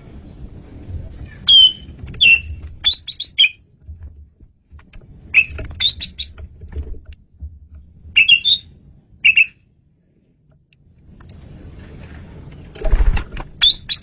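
Male Asian pied starling (jalak suren) singing in four bursts of short, squeaky, gliding notes separated by pauses, over a low background rumble.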